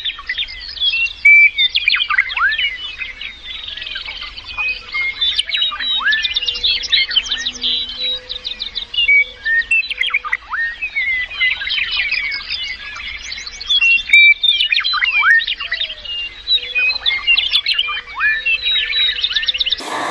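Several birds chirping and calling at once: a dense chatter of quick, overlapping chirps and short falling whistles.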